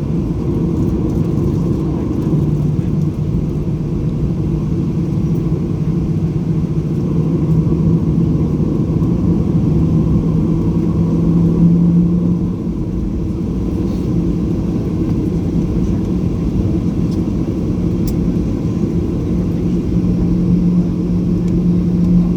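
Cabin noise inside a Boeing 737-800 with its CFM56-7B engines running at idle: a steady low rumble with a hum that creeps up in pitch, stops about twelve seconds in and comes back near the end.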